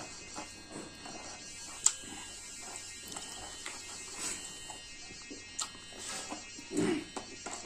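Close-up eating sounds as buffalo meat and rice is chewed: irregular wet mouth clicks and smacks, one sharper click about two seconds in and a longer, fuller mouth sound near the end, over a faint steady electrical buzz.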